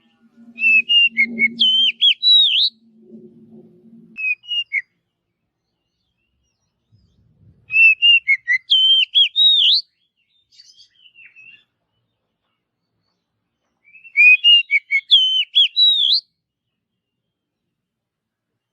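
Oriental magpie-robin (kacer) singing the same rich, whistled phrase three times, each about two seconds long and about six seconds apart. A low steady hum sounds underneath during the first few seconds.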